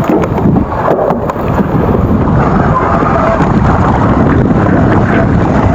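Loud, steady wind buffeting on the microphone, mixed with the rumble and rattle of an electric mountain bike riding over a wet trail, with scattered small knocks.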